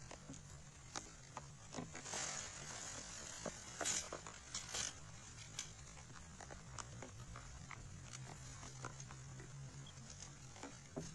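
Scattered raindrops and drips tapping irregularly, a few at a time, over a faint low steady hum.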